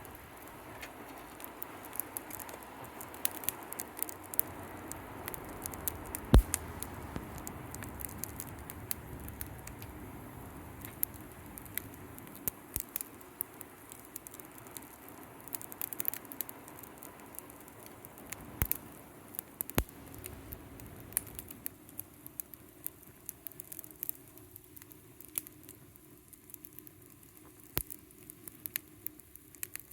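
Wood fire crackling in a fire pit stand, with frequent small sharp pops and one louder pop about six seconds in.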